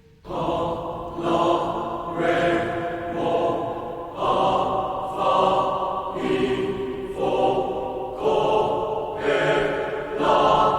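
A group of voices chanting in a steady rhythm, starting suddenly just after the beginning, with one phrase about every second.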